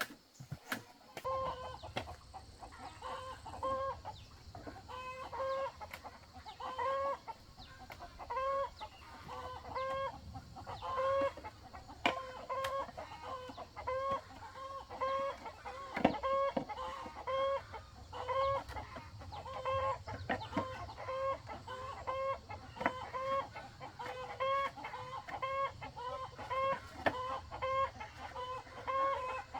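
Domestic chickens clucking steadily, short calls two or three times a second without pause. A few sharp knocks stand out, the loudest about halfway through, over a low steady hum that starts about a second in.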